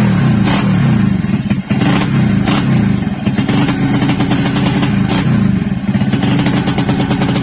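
Yamaha Jupiter underbone motorcycle's single-cylinder four-stroke engine, built up to 130cc, running at held, fairly high revs with a brief drop about a second and a half in.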